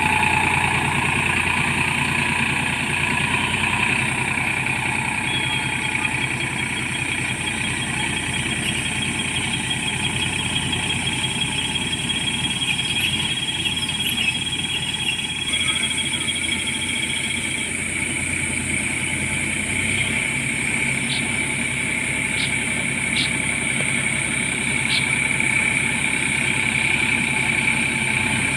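Tractor engine running steadily, a continuous drone whose tone shifts slightly about halfway through.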